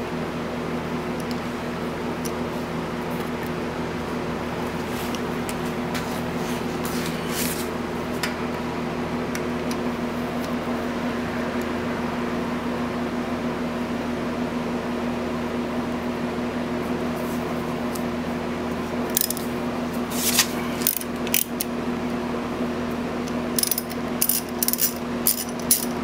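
A steady electric hum runs throughout. Over it, in the last several seconds, come sharp metal clinks and ticks of a wrench working loose the 12 mm bolts that hold the center stand to the Suzuki Burgman 650 engine, thickest near the end.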